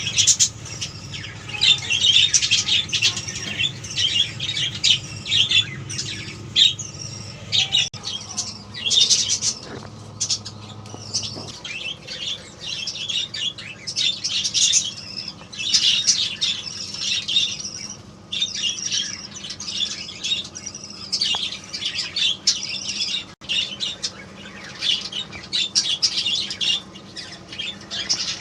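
A flock of budgerigars chattering: a dense, rapid run of high chirps and squawks with only brief pauses.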